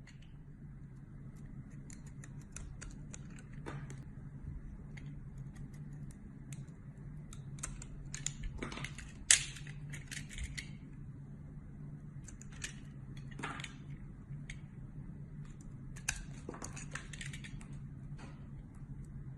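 Blade cutting through soap: crisp scraping and crackling strokes that come in clusters, with one sharp crack about nine seconds in.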